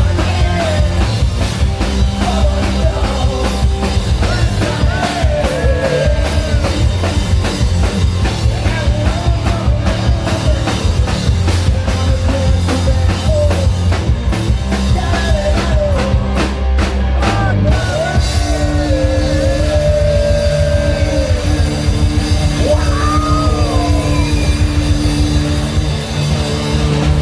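Melodic hard rock band playing, with a lead singer over drums and guitars; the arrangement changes about eighteen seconds in, with long held vocal notes over a sustained low note.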